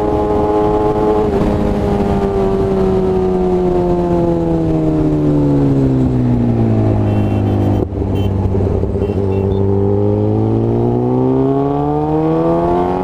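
Kawasaki ZX-10R's inline-four engine through an SC Project aftermarket exhaust, heard while riding. Engine speed holds, then falls slowly for several seconds, breaks off briefly about eight seconds in, and climbs steadily again near the end.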